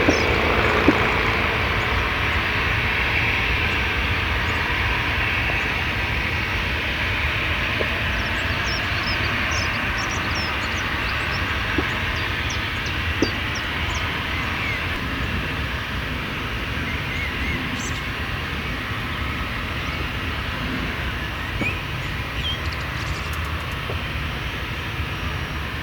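Distant Airbus A320 jet engines running as a steady rush that slowly fades, consistent with the aircraft taxiing after landing. Wind rumbles on the microphone, and small birds chirp now and then.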